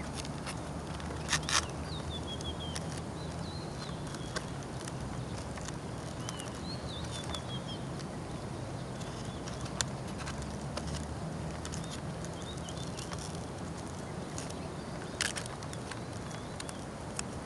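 Small birds chirping in short falling calls over a steady low outdoor rumble, with a few sharp clicks, a pair about a second and a half in and another pair about fifteen seconds in. The model plane's engine is not running.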